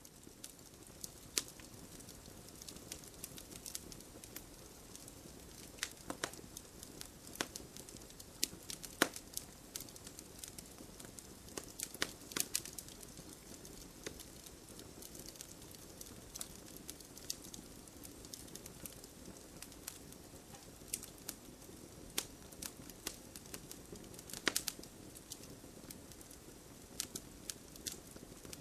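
Campfire burning with irregular crackles and sharp pops over a low steady hiss of flame.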